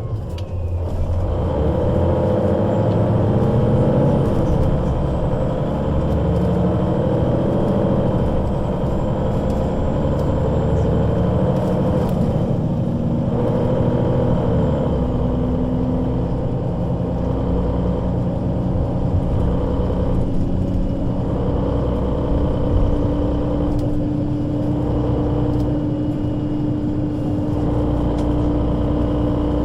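Solaris Urbino 12 III city bus with a Voith automatic gearbox under way. The engine note climbs and drops back several times in the first half as the bus pulls away and shifts up, then settles into a steady, slowly rising drone.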